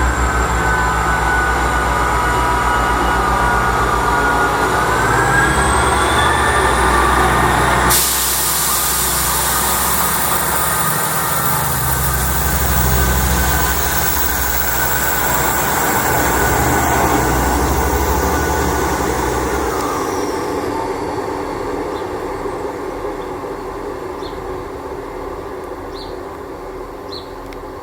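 A train passing close by, with a rumble of wheels on track and a whine that rises in pitch about five seconds in. A sudden rush of noise starts about eight seconds in. The train then fades away over the last several seconds.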